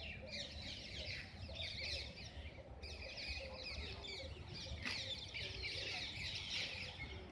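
Many birds chirping together in a dense chorus of quick, high chirps, over a faint low rumble.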